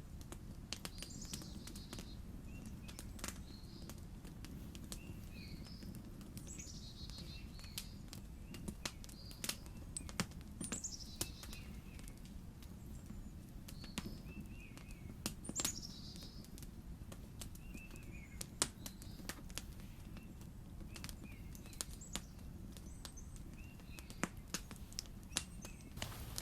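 Small songbirds chirping and calling again and again, with short falling notes, over a low steady background noise. Scattered sharp clicks or crackles are heard throughout and are the loudest sounds.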